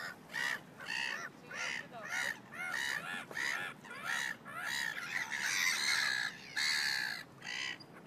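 Birds calling: a run of short calls about twice a second, crowding together and loudest about six to seven seconds in.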